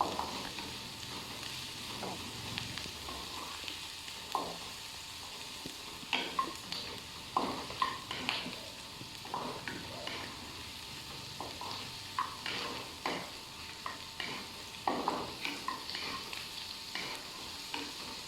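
Sliced onions frying in hot oil in a pan, a steady sizzle, with a spatula scraping and knocking against the pan at irregular moments as they are stirred.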